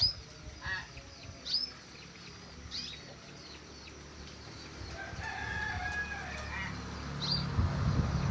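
Birds calling: short, sharp high-pitched chirps every second or so, and about five seconds in a rooster crowing, one drawn-out crow of about a second and a half.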